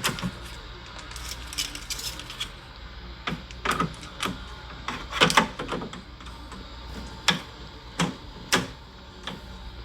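Irregular clicks and knocks of plastic parts of an evaporative air cooler being handled and fitted, about a dozen over ten seconds, some sharper than others, over a faint steady low hum.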